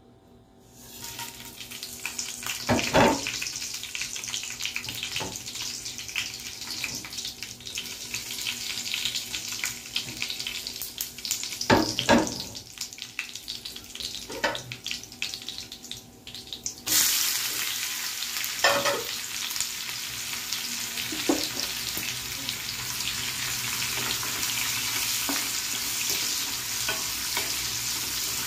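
Whole spices sizzling in hot oil in a nonstick frying pan, with a few sharp knocks against the pan. About two-thirds of the way through, sliced onions go in and the sizzle jumps to a louder, denser hiss as they are stirred with a wooden spatula.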